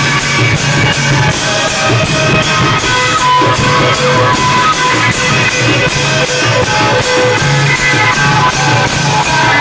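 Thai klong yao band playing: long drums and cymbals keep a steady fast beat under a plucked-string melody.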